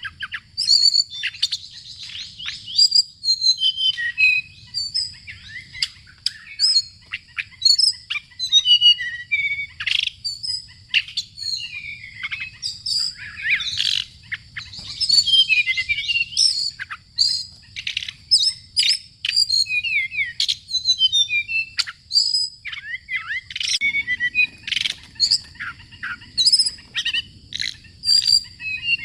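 Bird song: a dense, unbroken stream of short high chirps, whistles and quick up-and-down trills, over a faint low background hum.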